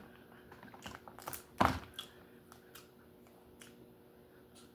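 Scattered small clicks and taps of lobster shell being handled and eaten, with one louder crack about a second and a half in.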